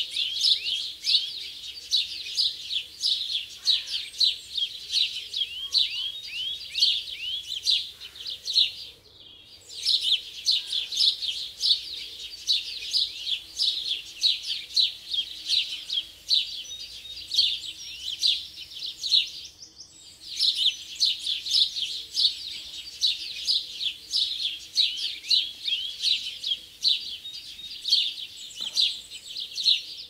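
A flock of small birds chirping and twittering together in a dense, continuous chorus of quick, high chirps. It breaks off briefly twice, about nine and twenty seconds in.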